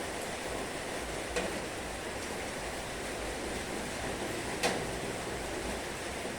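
Heavy rain falling steadily in an even hiss, with two sharper single taps of drops striking a surface, the first about a second and a half in and the second about two-thirds of the way through.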